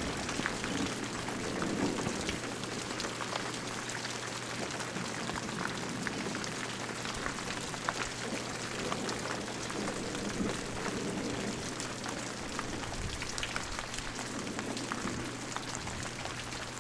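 Rain with some hail falling in a storm: a steady hiss dotted with many sharp ticks of drops and hailstones striking hard surfaces, the storm turning wetter.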